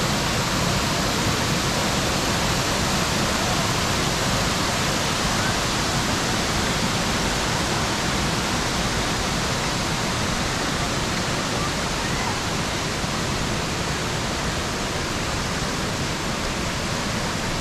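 A steady, even rush of water with no change in level.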